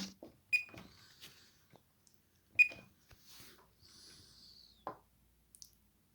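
Two short high beeps from a multimeter about two seconds apart as its probes touch the contacts of LEDs on a TV backlight strip during a diode test, among small clicks and handling noise from the probes.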